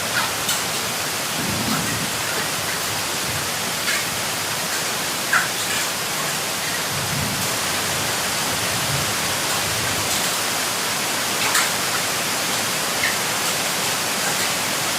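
Heavy rain falling steadily, a continuous hiss, with a few louder drops striking close by as sharp ticks and some soft low rumbles underneath.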